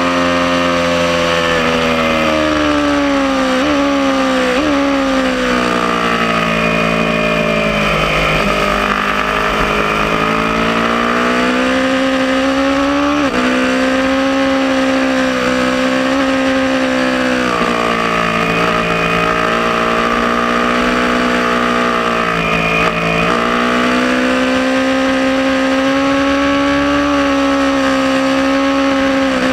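Aprilia Tuono motorcycle engine at track speed, its pitch climbing under throttle and falling away again several times, with abrupt drops at gear changes.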